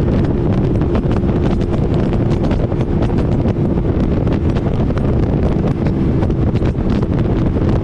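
Motorcycle riding at a steady speed, the engine holding one even note under heavy wind buffeting on the microphone.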